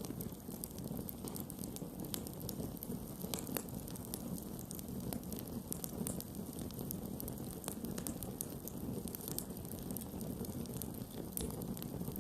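Wood campfire burning, with frequent sharp crackles and pops over a steady low rush of flames.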